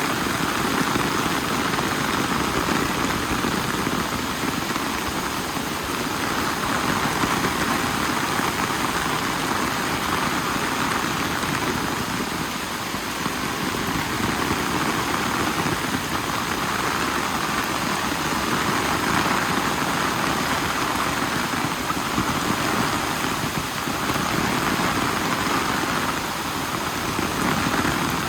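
Steady rain falling, a dense, even hiss that swells and eases slightly every few seconds.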